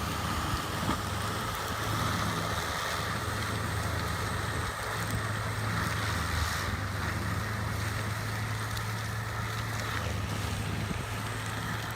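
Forestry mulcher running steadily, a constant low engine hum under an even hiss.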